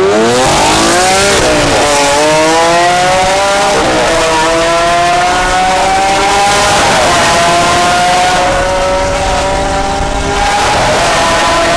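Straight-piped Lamborghini Aventador V12 at full throttle. The revs climb steeply, with two quick upshifts in the first four seconds, then the engine pulls on in a long, slowly rising howl. It is very loud.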